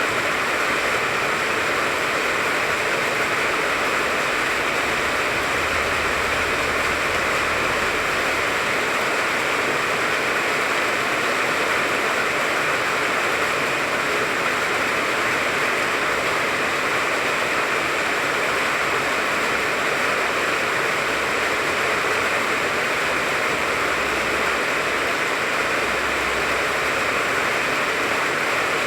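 Steady rain falling on the leaves of a tangerine tree: an even, unbroken hiss.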